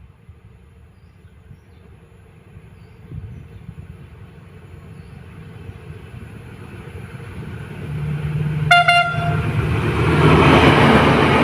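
Diesel locomotive-hauled train approaching, its engine and rolling noise growing steadily louder, with one short horn toot about nine seconds in.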